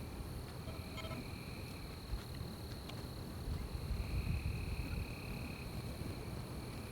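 Night forest ambience: insects trilling, with one steady high trill and a second, lower trill that comes and goes in stretches of a second or two. A constant low rumble lies underneath.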